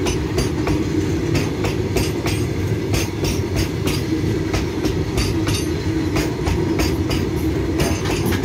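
Open BOXN-type freight wagons rolling past at close range: a steady low rumble of steel wheels on the rails, broken by sharp clicks several times a second as the wheels pass.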